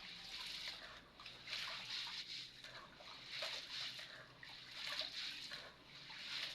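Millet and sorghum grains being swished and rubbed by hand in a bowl of water, sloshing in repeated swells about every second and a half, as the grain is washed clean of sand and stones before grinding for pap.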